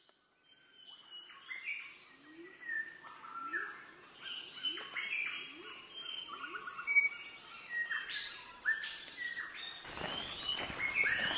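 Several forest birds chirping and whistling, many short calls overlapping one another, over a thin steady high tone. About ten seconds in, a rougher outdoor rustling noise comes in under the calls.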